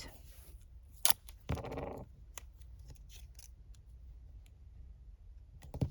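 Scissors snipping washi tape: one sharp snip about a second in, then a few softer clicks spread out. A short vocal sound about a second and a half in.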